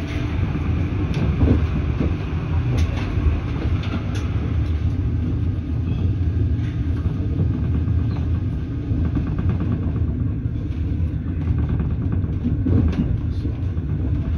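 Electric commuter train running at speed, heard from inside the car: a steady low rumble of wheels on rail, with a few sharp clicks and a short stretch of rapid ticking about two-thirds of the way through.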